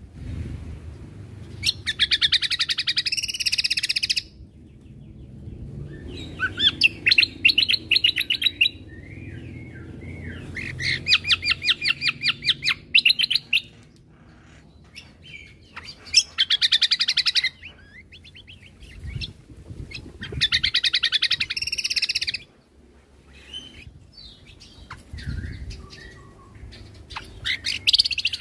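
Cucak kombo (kecial kombo) songbird singing in repeated bursts of rapid, high chattering notes, each about two seconds long and coming every four to five seconds, with softer calls between them. These are the fast 'tembakan' shooting phrases prized in a gacor bird. A faint low rumble runs underneath.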